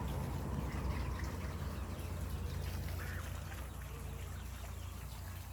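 Ducks quacking faintly a few times over a low steady rumble.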